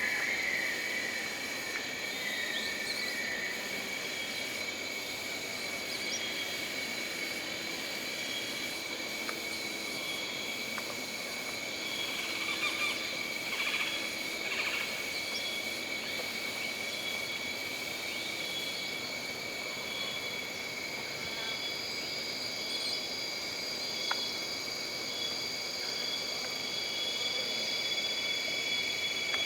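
Jungle ambience: a steady chorus of insects, several trilling at different high pitches, over a soft hiss. A few short animal calls come in around the middle, and there is a single click near the end.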